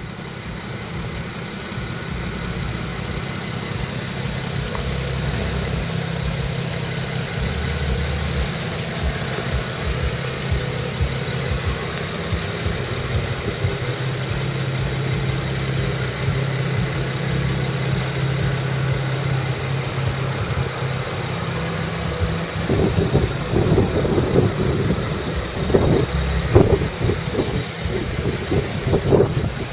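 BMW 335i's turbocharged 3.0-litre straight-six idling through its stock exhaust, a steady low hum. About three-quarters of the way in, uneven louder bursts join the idle.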